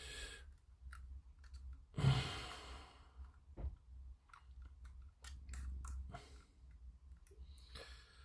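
A person sighing out heavily about two seconds in, and again more softly near the end, with faint small clicks and taps of plastic model-kit parts being handled and test-fitted.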